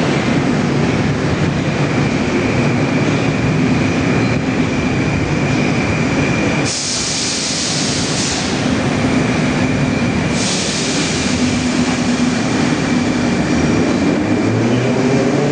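Soviet 81-717/714 metro train at the platform, its equipment humming steadily, with two long hisses, about seven and ten seconds in. Near the end the traction motors start a rising whine as the train begins to pull away.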